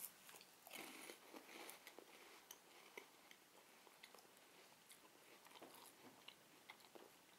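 Faint chewing of a mouthful of crisp chocolate-and-hazelnut wafer bar, with small irregular crunches.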